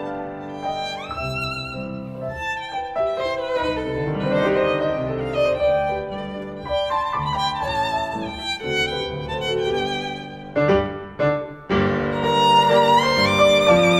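Violin and piano music: the violin plays a melody of sustained notes with vibrato over piano accompaniment. Shortly before the end come a few short, separated notes, then a louder phrase.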